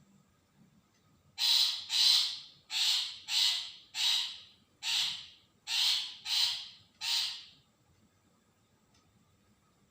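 Long-tailed shrike giving a run of nine harsh, scratchy calls, one to two a second, that stops a little after two-thirds of the way through.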